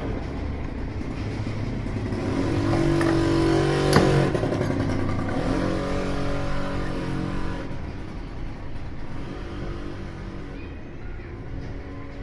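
A motor or engine runs continuously, its pitch shifting. It grows louder about two to four seconds in and then eases off, with a single sharp click about four seconds in.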